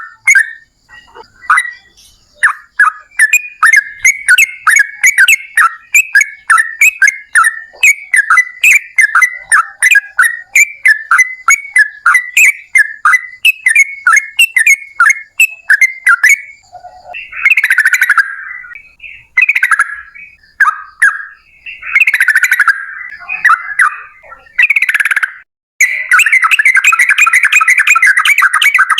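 Yellow-vented bulbul (trucukan) singing a long, rapid song: quick repeated bubbling notes for about the first half, then harsher chattering phrases with short pauses, ending in a dense unbroken run.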